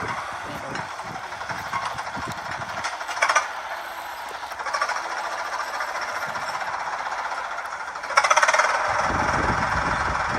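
Mini tractor's engine running with a steady mechanical clatter, with a brief louder burst about three seconds in and growing louder about eight seconds in.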